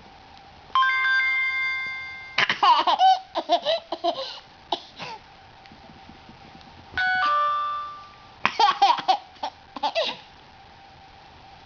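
A phone alert tone chimes and fades over about a second and a half, and a toddler laughs in short bursts. A second, different chime follows several seconds later, and he laughs again.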